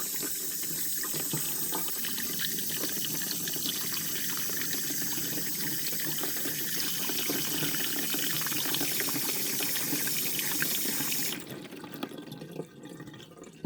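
Water running steadily through a miniature washdown toilet, then cutting off suddenly near the end, leaving a few drips and trickles.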